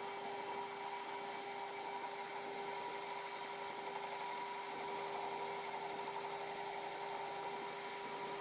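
Metal lathe running steadily with a constant hum and whine while a CBN insert takes a cut across the work-hardened seal surface of a tractor diff yoke. It is an interrupted cut into metal hard enough that the carbide barely touched it.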